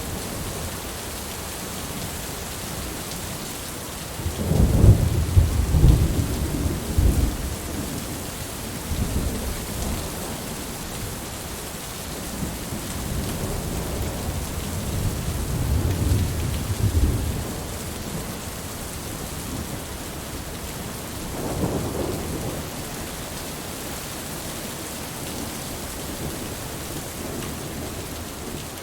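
Steady heavy rain with thunder rumbling: a big roll of thunder about four seconds in, another rumble around the middle, and a shorter one a little past twenty seconds.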